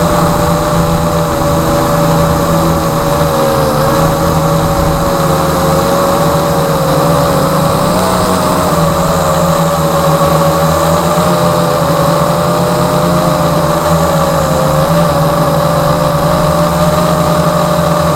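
Latrax Alias quadcopter's motors and propellers whining steadily, the pitch wavering slightly up and down as the throttle shifts, over a low steady hum.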